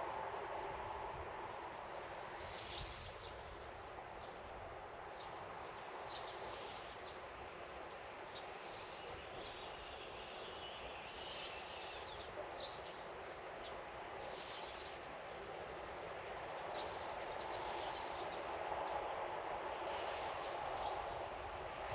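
Outdoor garden ambience: short high bird chirps every second or two over a steady wash of distant background noise, which swells near the start and again near the end.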